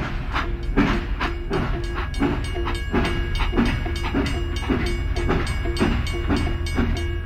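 Battery-powered toy steam locomotive running along plastic track: a rhythmic clicking chug about four times a second over a steady low motor hum.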